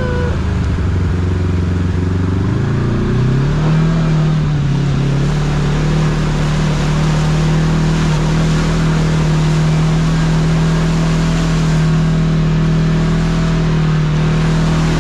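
Kawasaki KRX side-by-side's parallel-twin engine running under way, rising in pitch as it speeds up about two to three seconds in, then holding a steady cruise over wind and tyre noise.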